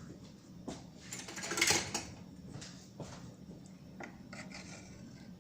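A spoon clinking and scraping against a cooking pot as lemon seeds are fished out of soup, in a few separate knocks with a louder scrape about one and a half seconds in. A steady low hum runs underneath.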